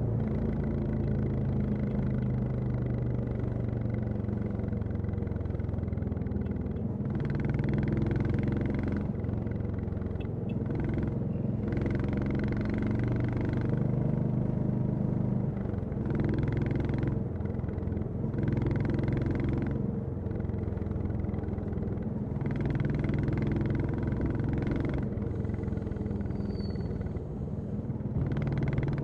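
Royal Enfield Classic 350's single-cylinder engine and exhaust running while riding, with louder stretches that swell and fade every few seconds.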